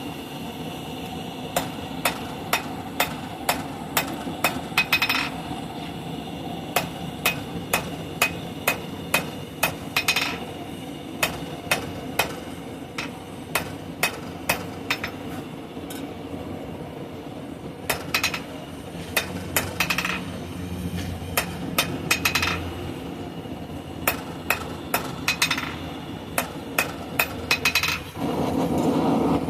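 Blacksmith's hand hammer striking a hot steel bar on an anvil, drawing it out: runs of ringing blows about two a second, broken by short pauses.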